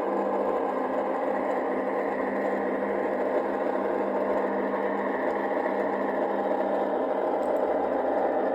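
LGB garden-railway model locomotive running steadily during a shunting move: a continuous motor and gear whir with a steady hum.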